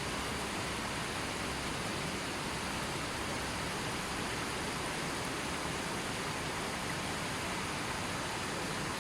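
River water flowing steadily: an even, unbroken rushing hiss.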